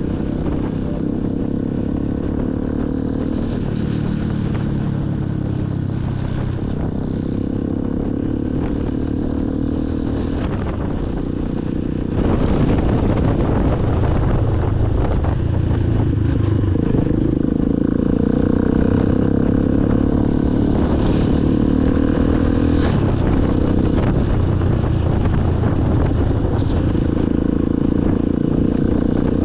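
Motorcycle engine running under way, its note rising and falling with throttle and gear changes, getting louder about twelve seconds in.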